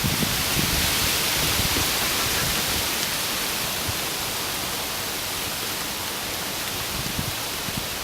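Steady rain falling, an even hiss with a few faint low knocks.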